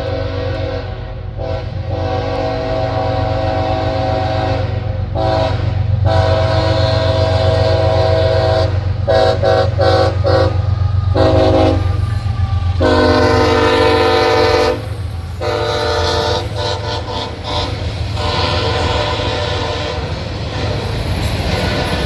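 Air horn of CSX #3175, a GE ES44AH diesel locomotive, sounding a run of long and short blasts over the steady rumble of the engine and the passing train. The loudest blast comes about two-thirds of the way in, with a lower-pitched one just before it.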